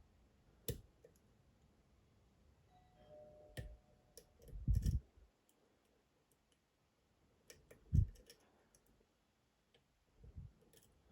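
Lock picks working inside a Dom IX Twinstar dimple cylinder: scattered sharp metal clicks and taps, with a few dull knocks of the lock and tools being handled. The loudest knocks come about five and eight seconds in.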